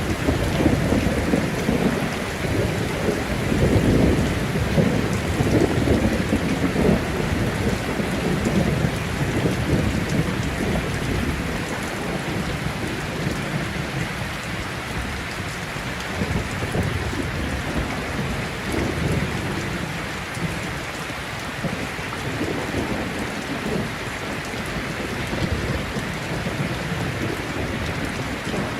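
Rainstorm: heavy rain falling steadily with thunder rumbling. The rumble is strongest in the first ten seconds or so, then eases, leaving mostly the rain.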